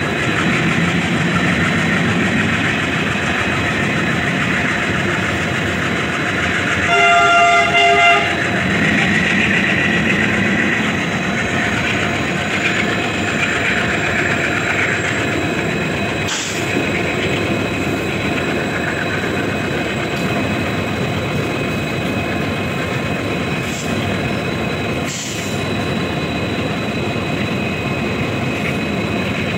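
Container freight train's wagons rolling past at speed: a steady rumble and rattle of steel wheels on the rails. About seven seconds in, a train horn sounds for about a second, and a few sharp knocks come later.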